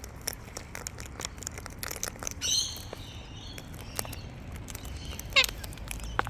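Two cockatoos chattering with soft calls over light clicking, then one gives a sharper short squawk that sweeps upward about five seconds in.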